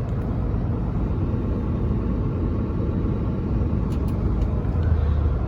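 Steady low rumble of a semi-truck's engine and tyres, heard from inside the cab while driving along.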